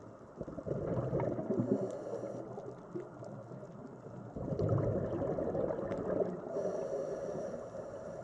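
Sea water rushing and washing in two swells, one about half a second in and one about four and a half seconds in, each fading away slowly.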